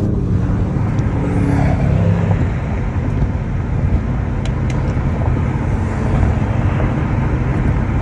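A car engine is held at steady revs for about two seconds, then fades into a loud, steady din of running cars.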